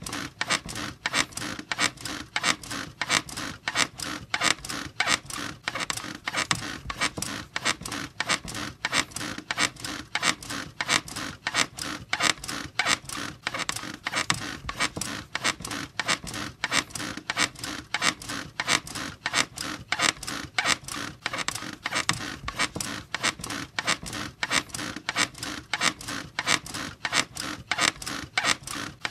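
Squeaky bed creaking in a steady, regular rhythm, several squeaks a second, as if it is being rocked back and forth.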